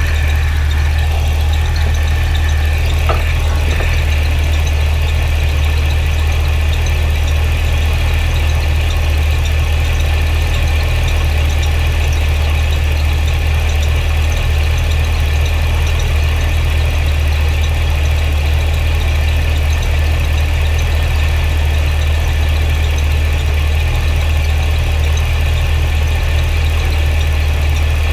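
Cadillac CTS-V's supercharged 6.2-litre V8 idling steadily, with a faint steady whine above the low idle.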